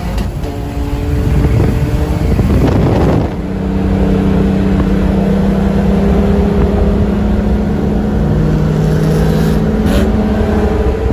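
Nissan 370Z's VQ-series V6 engine pulling hard at high revs. A gear change about three seconds in briefly drops the sound, then it runs on steady and loud.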